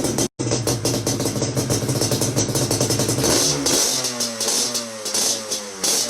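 Yamaha Banshee's two-stroke parallel-twin engine running at steady revs, then revved and let fall off several times in the second half.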